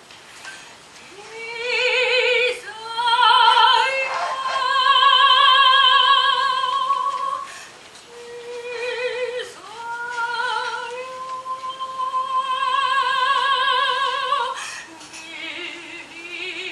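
A woman singing long, held notes with a strong vibrato in an operatic style, with short breaks between phrases and a lower note near the end.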